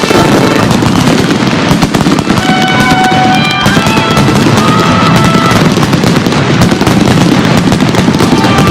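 Fireworks going off in rapid pops and crackles, mixed with music played over loudspeakers with held notes.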